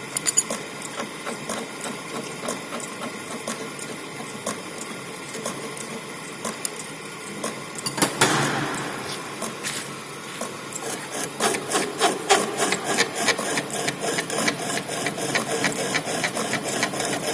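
Lathe running while the cutting tool is fed in by the cross slide to take a depth of cut for straight turning. There is irregular scraping and clicking, which grows denser in the second half, and one sharper knock about eight seconds in.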